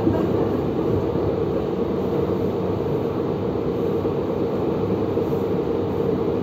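Steady running noise of a moving passenger train heard from inside the carriage: an even, low rumble of the wheels on the track.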